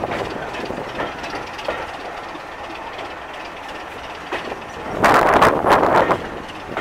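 Heritage railway coach running slowly, heard from its open window: a steady rolling rumble of the wheels with a few clicks over the rail joints. A louder rush of noise comes in about five seconds in and fades after a second or so.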